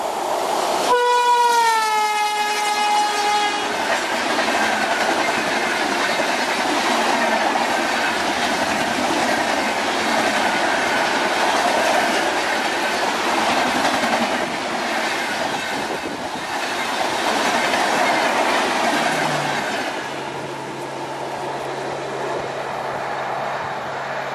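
Locomotive horn blown for about three seconds as the train reaches the camera, its pitch dropping as it passes, followed by the noise and clickety-clack of express coaches rolling past at speed. The passing noise eases near the end, leaving a low steady hum.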